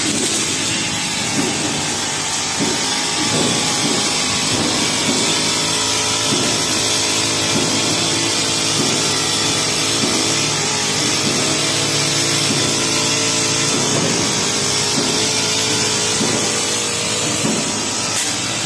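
Honda four-stroke brush cutter with a metal grass blade running steadily at cutting speed, with short strikes about once a second as the blade sweeps through the grass.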